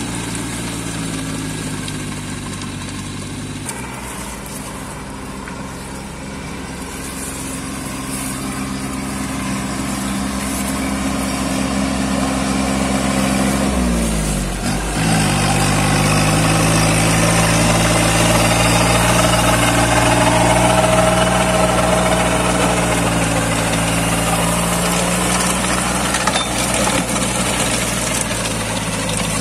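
Kubota 21 hp compact tractor's engine running steadily with its rotavator. About halfway through, the engine note briefly dips in pitch and comes back up, and it then runs a little louder.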